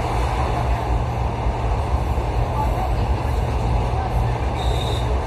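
Steady rumble of a suburban electric train running at speed, heard inside the carriage: wheels on the rails and running gear. There is a brief faint high whistle near the end.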